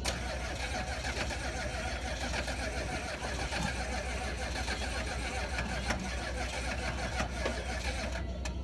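1986 GMC 6.2L V8 diesel being cranked over on its starter, turning steadily without firing after two years of sitting.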